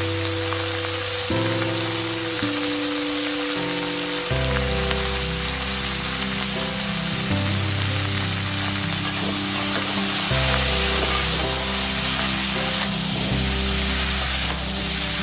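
Shredded squash with green chillies sizzling as it fries in oil in a metal wok, a steady hiss, under background music of long held notes.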